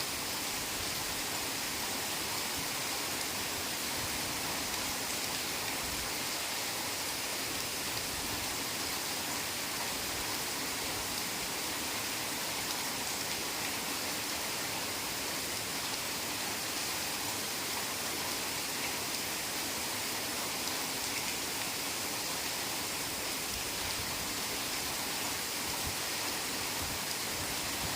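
Heavy rain falling steadily in a forest, a dense, even hiss with no breaks or separate drops standing out.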